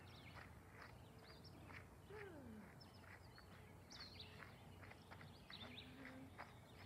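Faint birdsong: scattered short chirps and whistles from songbirds in the trees, over a quiet low hum.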